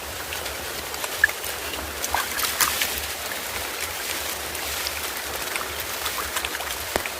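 Steady hiss of falling rain, with scattered small taps and clicks.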